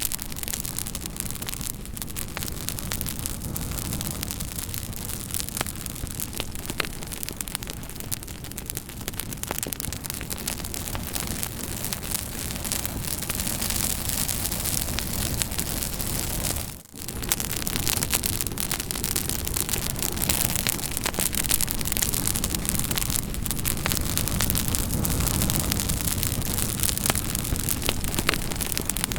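Campfire crackling: wood burning with a steady hiss and many small, irregular pops and snaps. The sound dips out for a moment about halfway through.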